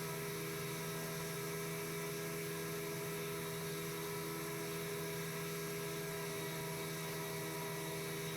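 Piper Super Cub floatplane's engine and propeller droning steadily in cruise flight, at an unchanging pitch with a hiss behind it.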